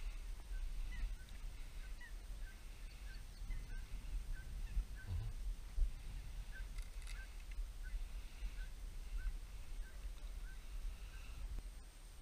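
Birds calling, a string of short high calls repeated about two a second, over wind rumbling on the microphone.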